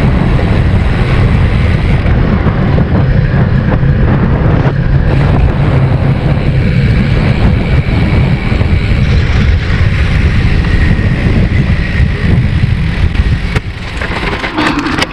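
Loud, steady wind rumble buffeting the microphone while riding a bicycle at speed, with road and tyre noise underneath; it eases slightly near the end.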